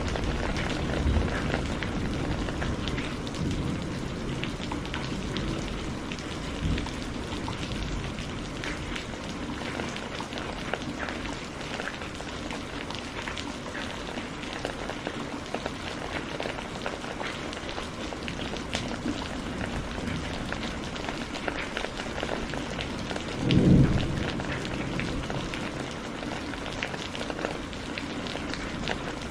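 Steady rain falling, with the patter of individual drops, and a few low thunder rumbles. About three-quarters of the way through comes one brief, loud, low boom of thunder.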